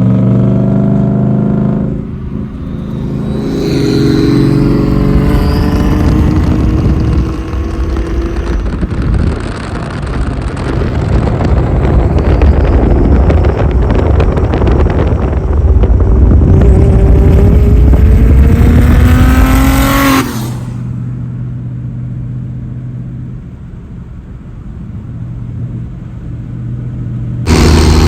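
Car engine under hard acceleration, its pitch climbing through several gears with brief drops at the shifts. About twenty seconds in, it cuts abruptly to a steadier, quieter engine note.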